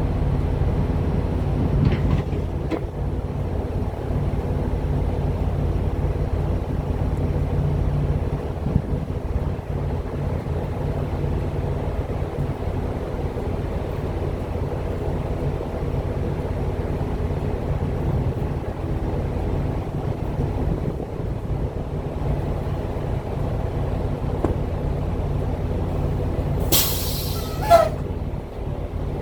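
Semi-truck engine and road drone heard from inside the cab, steady and low. Near the end there is a brief loud hiss with a short falling tone.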